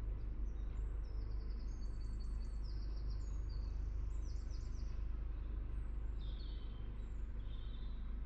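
Birds chirping in quick runs of short high notes over the steady low rumble of a narrowboat's engine underway.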